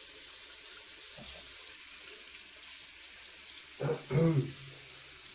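Warm water running steadily from a tap into a sink, a hiss. About four seconds in, a short voice sound from a man cuts in over it.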